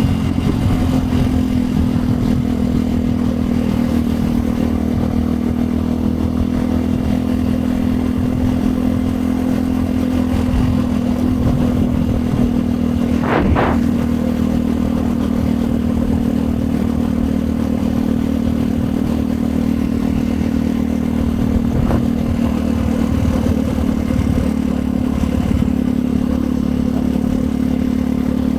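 2010 Yamaha WR 125 X's single-cylinder four-stroke engine with a Yoshimura exhaust, running at a steady engine speed while riding. A sharp knock about halfway through.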